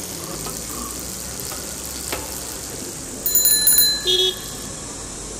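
A bicycle's thumb-lever bell rings with a rattling trill about three seconds in, followed by a short second ring, over a faint steady outdoor hiss.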